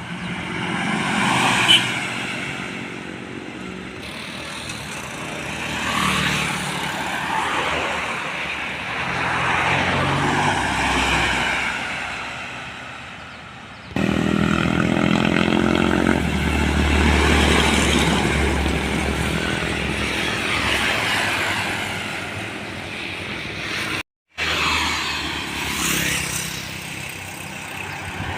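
Heavy diesel trucks driving past on a road, engine sound swelling and fading as each one passes, with abrupt cuts between passes.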